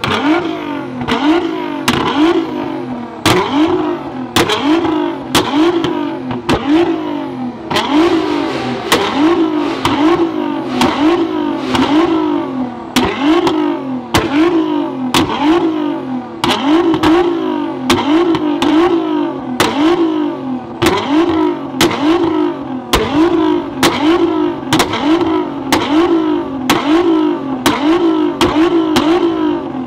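Tuned Nissan GT-R R35's twin-turbo V6 revved over and over in quick blips, a little under two a second, with many sharp cracks and pops from the exhaust.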